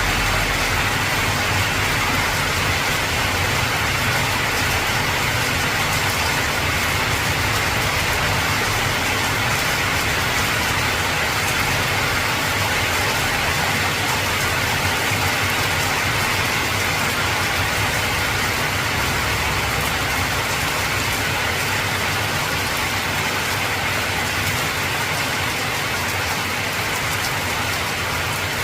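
Heavy rain drumming steadily on an old corrugated zinc roof, with a low rumble underneath.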